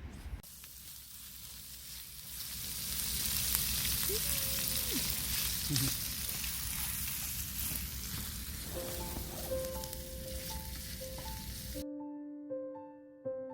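Food sizzling steadily as it fries in a pan, cutting off suddenly near the end. Piano music comes in over it about two-thirds of the way through.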